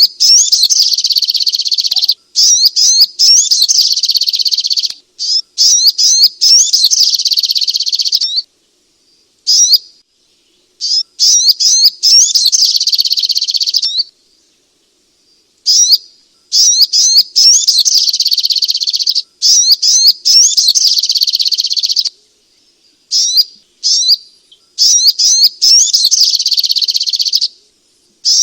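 Sogok ontong (ruby-cheeked sunbird) singing: a loud, rapid, high-pitched twittering of quick chips and trills in long bursts, broken by a few pauses of a second or two.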